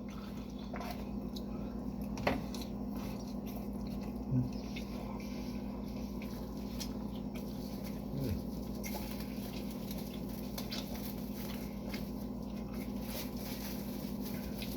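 A steady low hum, with a few faint clicks and soft short sounds scattered through it.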